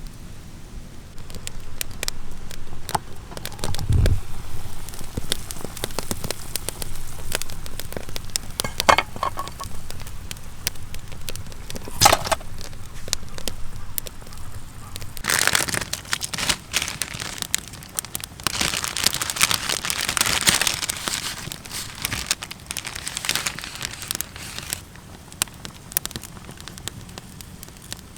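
Wood campfire crackling and popping, with many sharp snaps and a louder, hissing stretch of crackle in the second half. There is a dull thud about four seconds in.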